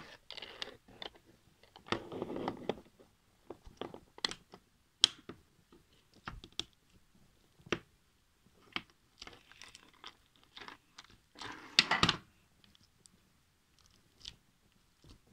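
Hands squeezing and poking slime, making irregular wet clicks, pops and crackles, with a louder squelching burst about two seconds in and another near twelve seconds.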